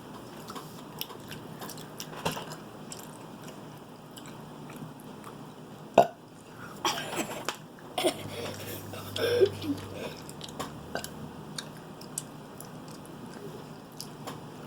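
Close-up chewing of gummy candy (a gummy egg), with soft wet mouth clicks and a few louder brief sounds about six to ten seconds in.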